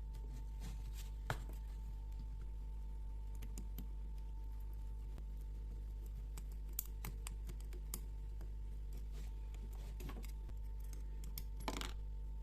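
Sparse light clicks and taps of small carburetor parts and hand tools being handled, with a slightly longer scrape about two-thirds of the way through, over a steady low electrical hum.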